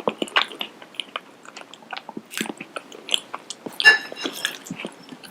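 Close-miked mouth sounds of a person biting and chewing crunchy food, a quick run of sharp crackles, with a louder crunch about four seconds in.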